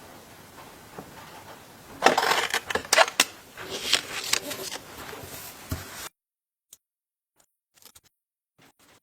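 Hard objects being handled: a burst of irregular clattering, knocking and rattling about two seconds in, lasting some four seconds, then only a few faint ticks.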